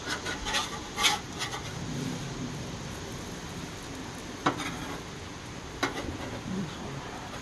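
Spatula scraping and tapping in a frying pan, working at an omelet that is sticking to the pan. There are several quick scrapes at the start, then a steady background with a couple of single clicks later on.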